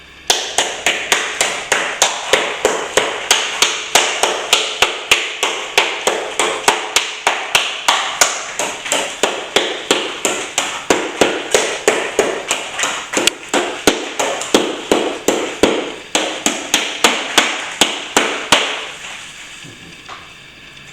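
Rapid, even tapping strikes of a hand tool, about three a second, keep going for some eighteen seconds and then stop.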